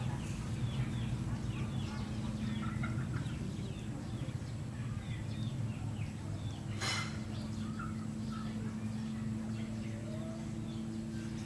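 Birds chirping in many short, quick falling calls over a steady low hum, with one brief scratchy noise about seven seconds in.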